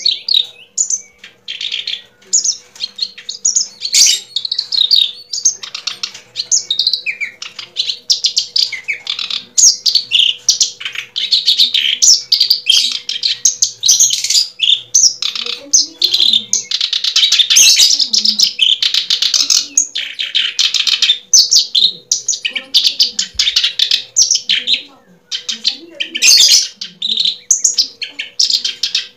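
Small birds chirping and twittering rapidly and almost without pause, high-pitched.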